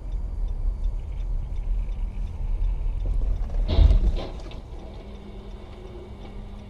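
Steady low rumble of a car in motion, recorded from inside the vehicle, with a loud brief impact almost four seconds in; afterwards the rumble drops to a quieter steady hum.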